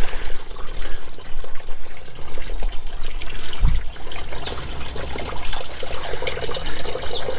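Waste water held back in a blocked toilet soil stack pouring and trickling steadily out of the lifted stack pipe as the backed-up pipe drains. A dull thump about halfway through.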